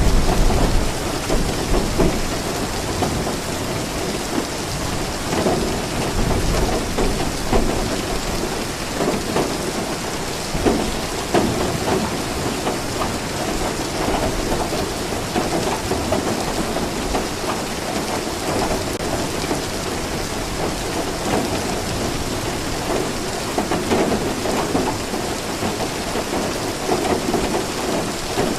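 Steady rain falling, with a low rumble of thunder that is loudest in about the first second.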